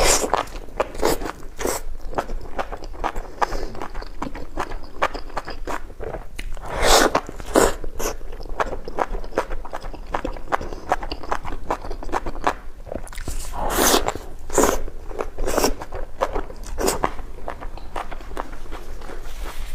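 Close-up eating: a stream of wet chewing clicks broken by louder crunching bites, four or so of them standing out.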